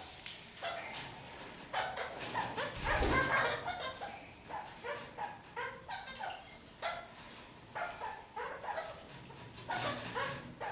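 Red-crowned parakeets (kakariki) chattering in a run of short, quick calls, with a low thump about three seconds in.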